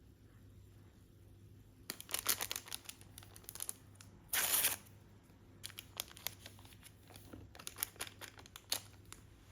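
Crinkling and rustling of paper or plastic in irregular clusters, with one short, louder tearing or ripping sound about four and a half seconds in.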